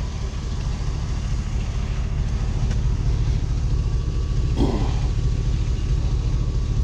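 Pickup truck's engine and road rumble heard from inside the cab while driving, growing slightly louder as it picks up speed. A brief vocal sound comes about two-thirds of the way in.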